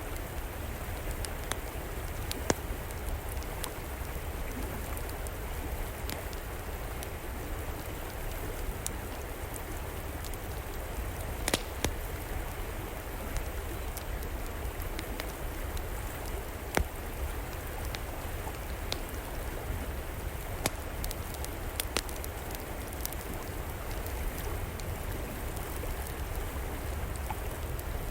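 River water flowing steadily, with a wood fire crackling and giving sharp pops every few seconds.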